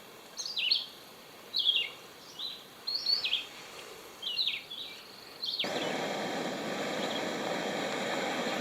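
A songbird singing short phrases of quick, high slurred notes, roughly one phrase a second. About two-thirds of the way through, a steady rushing noise comes in suddenly and holds.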